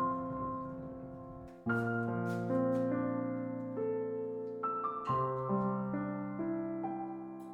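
Slow, gentle solo piano music: chords struck every few seconds, each ringing out and fading. A few short clicks sound about two seconds in.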